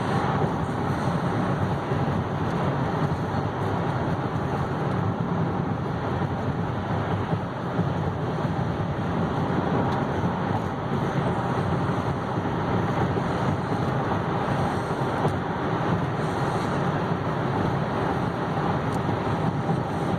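Steady road noise inside the cabin of a 2014 Chevy Cruze diesel holding a constant speed on cruise control: tyre and wind noise with the engine running.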